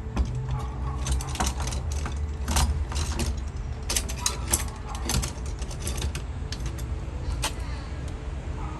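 A run of irregular sharp clicks and clacks of dent-repair tools and glue-pulling gear being handled, over a steady low hum.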